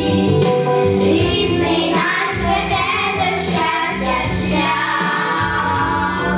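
A child's voice singing a song over instrumental accompaniment, with a light beat about twice a second in the middle.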